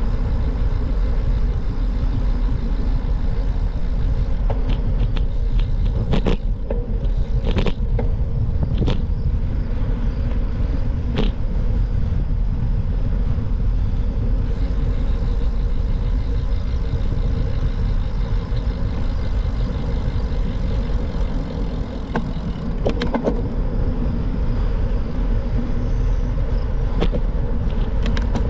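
Steady wind and road rumble from a moving bike ride, with a few sharp clicks and rattles along the way.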